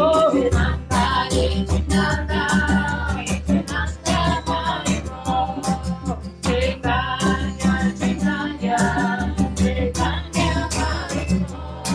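Voices singing a kirtan mantra chant over a strummed acoustic guitar, with held, gliding sung notes and a steady strumming rhythm.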